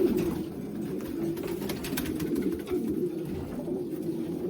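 Racing pigeons in a loft cooing continuously, many birds at once, with a few light knocks and scuffs among them.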